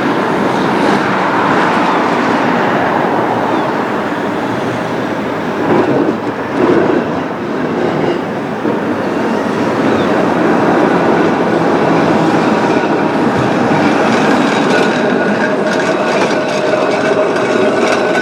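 Tram running on its rails: a steady rumble of wheels on track, with a couple of knocks about six to seven seconds in. Steady whining tones come in over the last few seconds.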